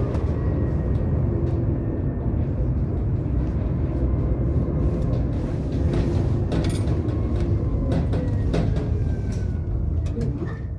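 Tram running along its track, heard from inside the car: a steady low rumble with thin whining tones and scattered sharp clicks and knocks from the wheels and rails. The rumble eases near the end.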